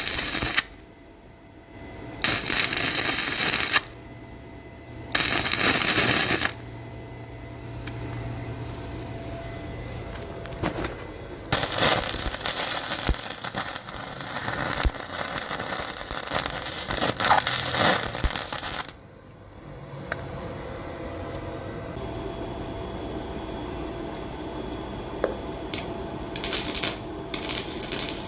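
Electric arc welding with a VEVOR MIG-130 welder: the arc crackles and hisses in bursts. There are two short welds in the first few seconds, a long run of about seven seconds in the middle, and another short burst near the end.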